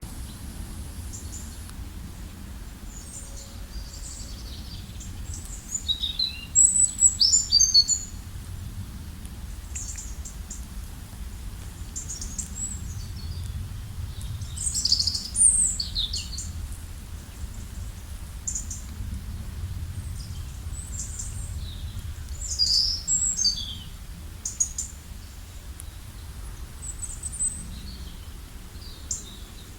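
Several songbirds singing and chirping in short, high, varied phrases, with louder bursts of song now and then, over a steady low rumble.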